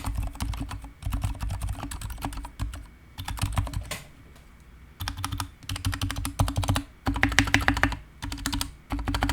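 Typing on a GK61 mechanical keyboard with stock, unlubricated Gateron silent brown switches and PBT pudding keycaps: quick runs of keystrokes. There is a pause of about a second near the middle, and the run near the end is the busiest and loudest.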